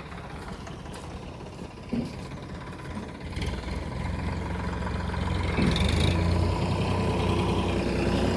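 Tractor engine running steadily. It grows louder about three seconds in and again near six seconds, with a short thump about two seconds in.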